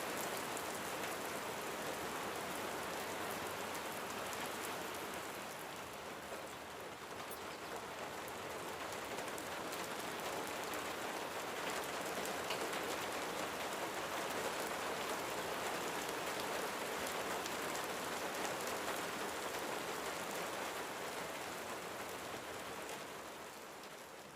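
Steady rain falling, a dense patter of drops, fading out near the end.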